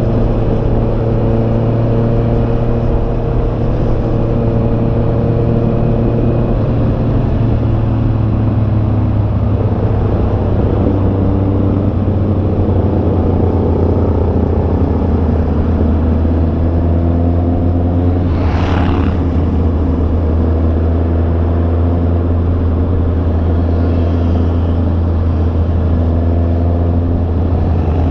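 Honda CB650R's 649 cc inline-four engine running steadily under way, its pitch dropping a step about a third of the way through and then holding level. A brief rushing whoosh comes about two-thirds of the way in.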